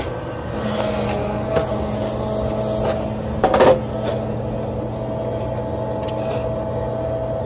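HVAC equipment running with a steady mechanical hum that holds on one pitch. There is a single metallic clank about three and a half seconds in.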